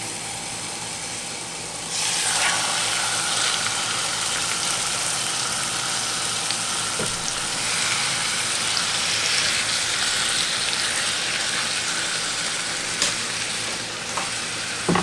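Stuffed chicken breasts sizzling in hot olive oil in a pan, the sizzle suddenly louder about two seconds in as more chicken goes in. A few light knocks of the pan.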